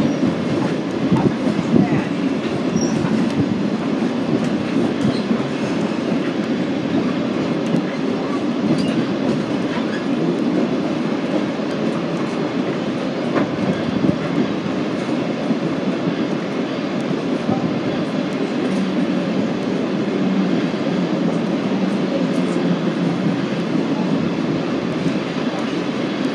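Train rolling along the track: a steady rumble of wheels on rails that neither builds nor fades.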